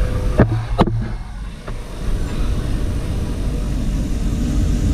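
Gas brazing torch flame running with a steady rush, heating air-conditioner copper pipework for brazing; two sharp clicks sound near the start.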